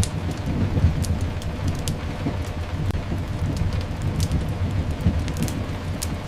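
Layered ambience of steady rain over a deep, continuous low rumble, with scattered sharp crackles throughout.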